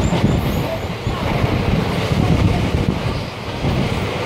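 Steady rumble and rattle of a passenger train coach running on the rails, heard from an open window.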